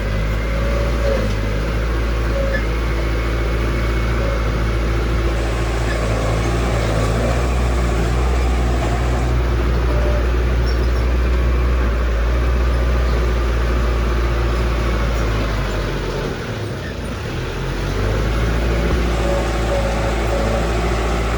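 Heavy construction machinery's diesel engine running steadily under load, easing off briefly about three-quarters of the way through and then picking up again.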